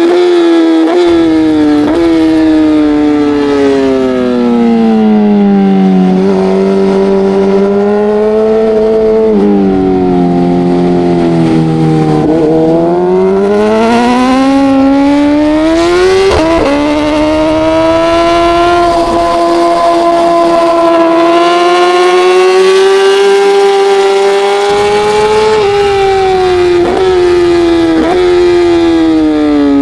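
Racing motorcycle engine at full race pace, its pitch falling in steps with quick breaks at each downshift into corners and climbing steadily as the bike accelerates out, then holding high before dropping again near the end.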